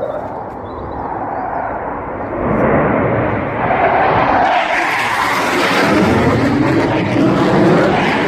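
Eurofighter Typhoon fighter jets, with twin EJ200 turbofans, flying low past. Their jet roar builds over the first couple of seconds, becomes much louder about two and a half seconds in, and stays loud, its tone sweeping as they go by.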